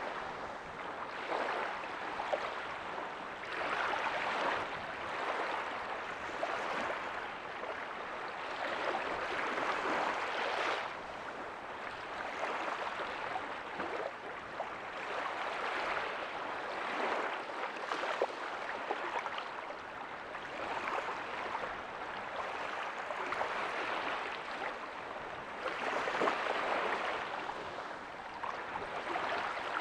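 Small ocean waves breaking softly on a beach: a steady wash of surf that swells and ebbs every few seconds as each wave comes in.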